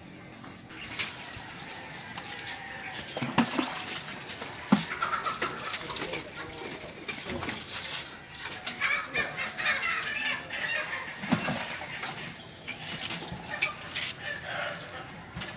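Birds calling, with scattered knocks and footsteps.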